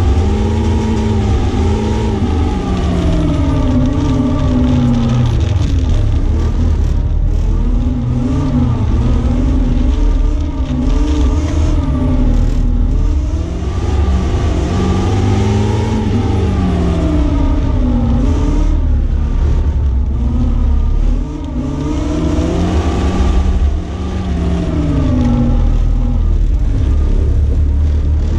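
BMW E36 318is four-cylinder engine heard from inside the cabin, revving up and dropping back again and again as the car is driven hard through gear changes and corners, over a steady hiss of road noise.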